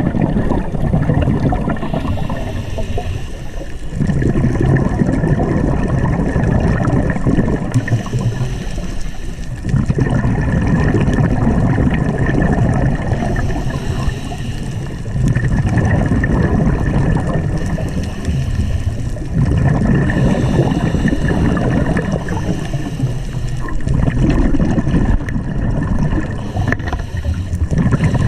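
Underwater bubbling and gurgling from a scuba diver's exhaled breath, coming in surges about every four to five seconds. A thin steady high tone runs beneath it.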